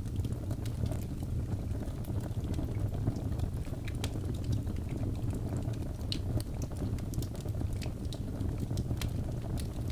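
Wood fire burning in a fireplace: a steady low rumble of flames with frequent sharp crackles and pops from the burning logs, scattered irregularly throughout.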